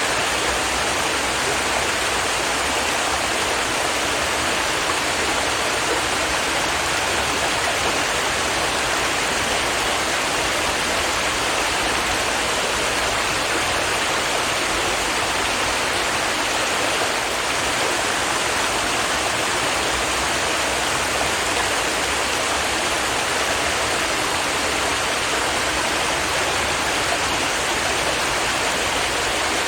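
A small stream of clear water flowing and babbling over rocks, a steady even rush.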